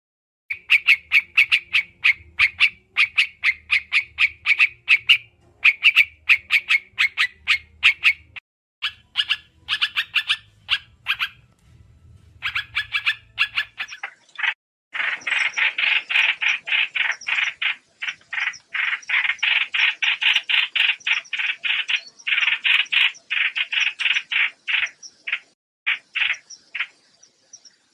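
Trao trảo bird calling in rapid runs of short, sharp chirps, several a second, played as a lure call for bird trapping. A short break comes about 14 seconds in, followed by a denser, louder run of chirps. A faint low hum sits under the first half.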